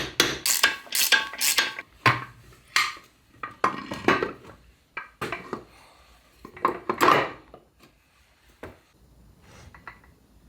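Small steel gearbox parts clinking and clattering as a layshaft distance piece is swapped and tried for fit in a Land Rover Series gearbox. A quick run of sharp metallic clinks in the first two seconds, then scattered knocks until a few seconds before the end.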